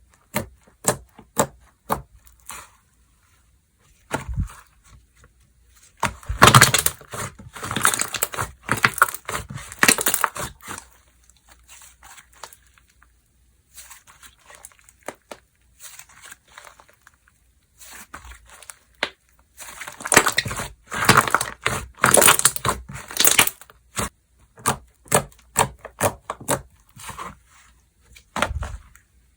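Slime being squeezed, stretched and folded by hand, giving off sharp crackling and popping clicks. The clicks come in two dense crackling runs, about six and about twenty seconds in, with sparser pops and short lulls between.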